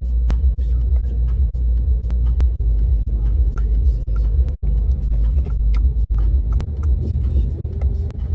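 Deep, steady rumble of a car driving, heard from inside the cabin, with scattered faint clicks.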